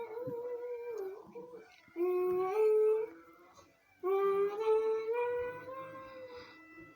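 A pet bird making drawn-out, humming or singing-like vocal notes that step up and down in pitch, in two phrases: a short, loud one about two seconds in and a longer, wavering one starting about four seconds in.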